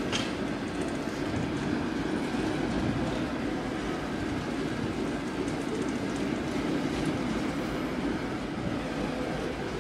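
Steam-hauled train of coaches moving slowly along the track: a steady rumble of wheels on rail, with a sharp click right at the start.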